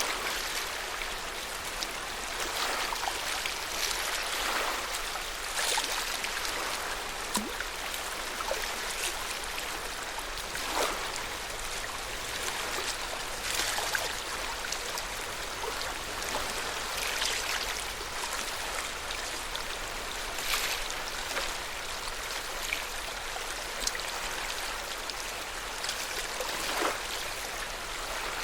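Lake water lapping: a steady wash broken by small, irregular splashes every second or two.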